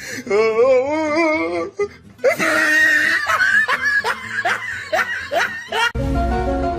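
Hearty laughter in a run of quick, rhythmic bursts, after a wavering pitched sound at the start, with music coming in near the end.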